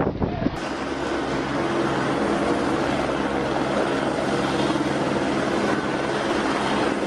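Helicopter running steadily, its engine and rotor making a constant drone with a few fixed low hum tones; the sound changes abruptly about half a second in, where one clip cuts to the next.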